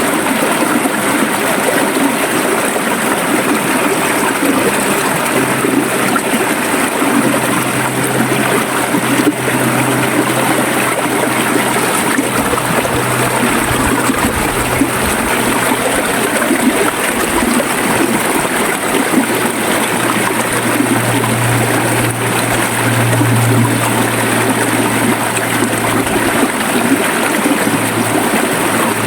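River water running steadily over rocks, trickling and gurgling.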